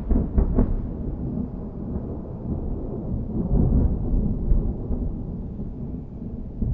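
Thunder rolling as a deep rumble, with a few sharper cracks in the first second. It swells again about three and a half seconds in, then slowly dies away.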